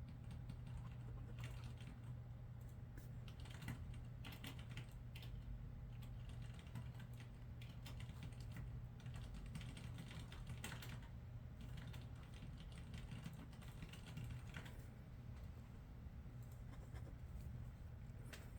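Typing on a computer keyboard in short, irregular runs of key clicks, over a steady low hum.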